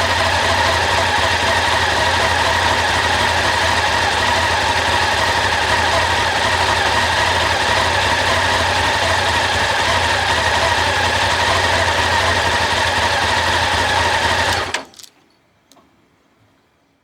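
Honda CB1100SF X-11's four-cylinder engine running steadily, then shut off about fifteen seconds in, the sound stopping abruptly, followed by a few faint ticks.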